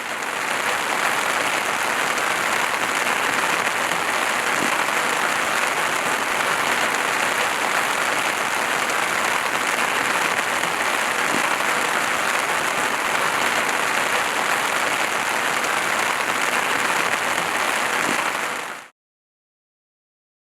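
Steady rainfall, an even hiss that fades in at the start and cuts off abruptly about nineteen seconds in.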